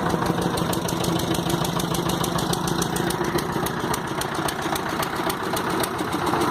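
Small fishing boat's engine running steadily, with an even, rapid chugging beat.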